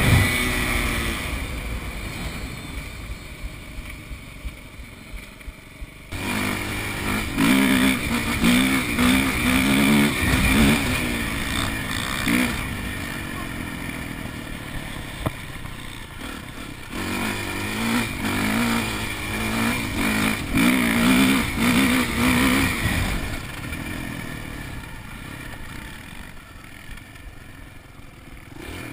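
Four-stroke dirt bike engines being ridden, revving hard with the pitch rising and falling as the throttle opens and closes. There are two loud spells of revving in the middle, and between and after them the engine fades off into the distance.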